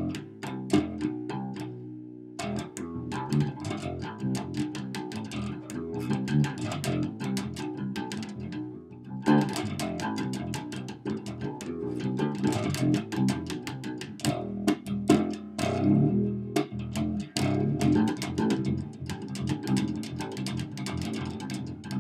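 Wolf KTB six-string fretless bass played through an amp: a steady run of plucked notes, with brief breaks about two and nine seconds in.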